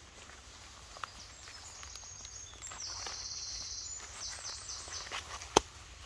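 Spring woodland ambience with a small bird's high, buzzy trill lasting about a second in the middle, followed by a few shorter high notes. A couple of sharp clicks break in, the loudest one near the end.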